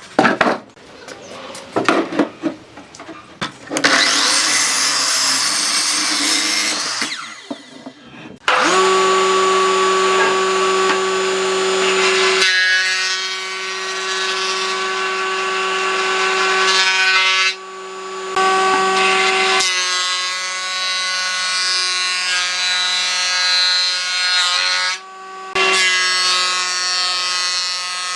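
Electric power tools working hardwood: a few sharp knocks, then several seconds of rough grinding noise, then a motor whining steadily at a held pitch as it works the wood, dipping briefly twice.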